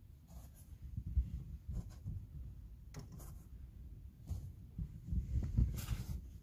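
Irregular low thumps and knocks with several sharp clicks, the busiest and loudest near the end: gear being handled and unfolded inside a small car's cabin.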